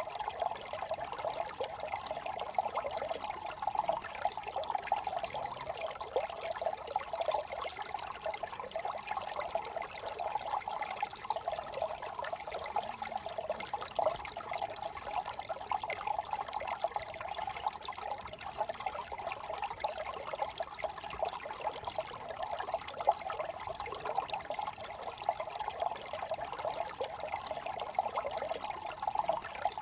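Small brook trickling and burbling over stones, a steady, bubbly flow of water.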